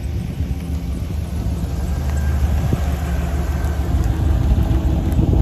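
Chevy SSR's 5.3-litre V8 running steadily at low revs as the truck rolls slowly past, a deep, even rumble.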